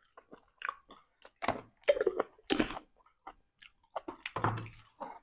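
Close chewing and mouth smacks of a person eating rice and curry, in irregular short bursts.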